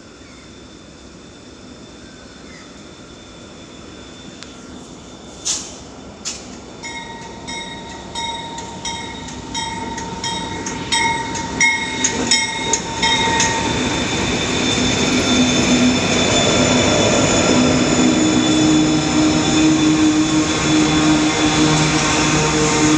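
A diesel-hauled freight train approaching and passing, growing steadily louder. Sharp wheel clicks and a high steady squeal come through the middle, then the locomotives' engines drone loudly for the last part.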